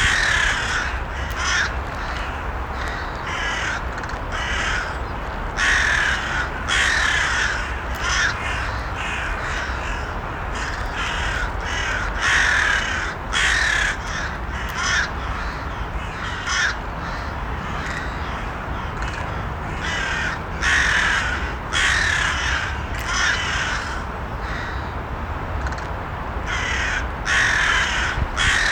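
Crows cawing again and again, short harsh calls coming every second or two with some louder bursts, over a steady low background rumble.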